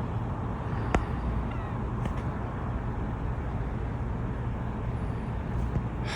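Steady low outdoor rumble, with a single sharp click about a second in.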